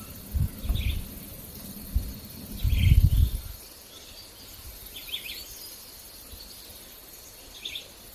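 Outdoor ambience: a steady high drone of insects with four short bird chirps spread through it. During the first three and a half seconds, irregular low rumbling thuds come and go, the loudest about three seconds in.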